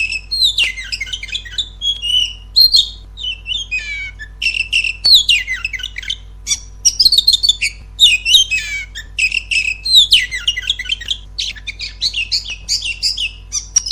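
Oriental magpie-robin (kacer) song: a continuous, varied run of loud whistles, trills and chattering phrases with short pauses, used as a lure recording to coax a silent kacer into singing. A steady low hum runs underneath.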